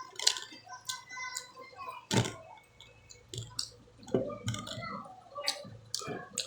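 Eating sounds up close: irregular wet mouth clicks and smacks while chewing mango, with one sharper click about two seconds in.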